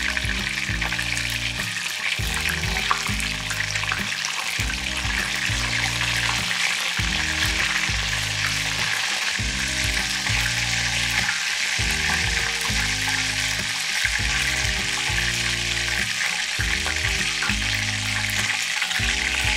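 Chicken pieces frying in hot oil in a wok: a steady sizzle throughout. Background music plays underneath.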